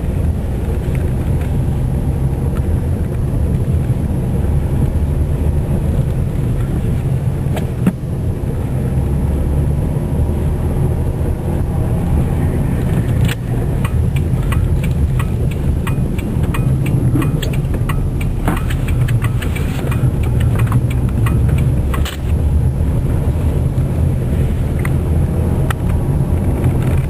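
Steady low engine and road rumble heard from inside a moving car. About halfway through comes a run of irregular sharp clicks and crackles lasting several seconds.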